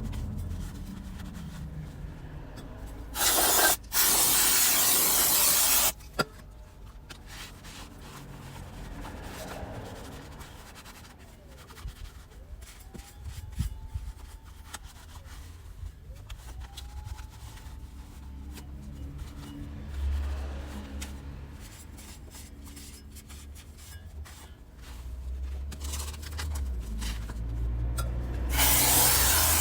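Hand work on motorcycle parts, rubbing and scraping, with two loud hissing bursts: one about three seconds in that lasts nearly three seconds, and a shorter one near the end.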